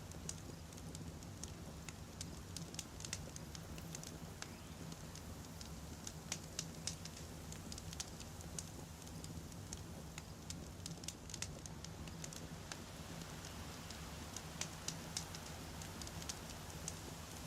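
Wood campfire burning steadily, the logs crackling and popping in irregular sharp clicks over a low rumble of flame.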